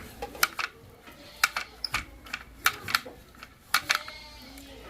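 A run of sharp, irregular clicks and knocks, often in quick pairs, about a dozen in all. An animal bleats near the end.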